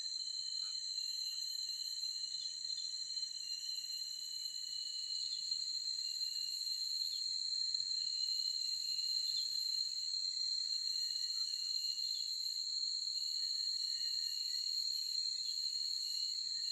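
Forest insect chorus: a steady, high-pitched shrill drone, with short faint chirps repeating about every two seconds.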